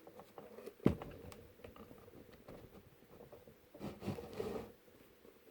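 Handling noises from work on a small motor-and-pump assembly. There is one sharp knock about a second in, a few light clicks, and a scraping rustle around four seconds in.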